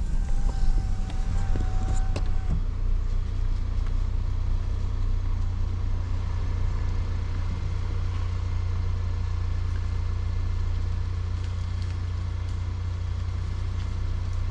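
Steady low road and engine rumble of a car heard from inside the moving cabin. A thin, steady tone sounds for about the first two seconds.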